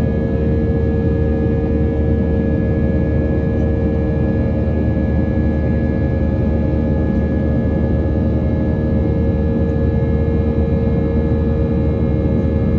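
Steady jet engine noise heard inside the cabin of an Airbus A320-232 with IAE V2500 turbofans. It is a loud, even rush with several steady whining tones over it, holding a constant pitch and level throughout.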